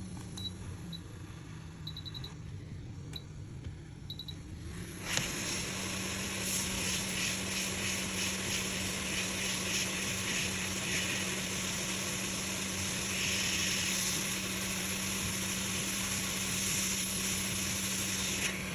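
Hot-air rework station: a few short high beeps from its controls, then about five seconds in its air blower switches on and runs with a steady hiss over a low hum, heating the screen's display IC chip.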